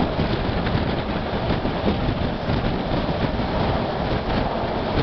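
Passenger train running along the track, heard from an open carriage window: a steady rumble of the wheels on the rails with faint ticks from the track, and wind rushing at the microphone.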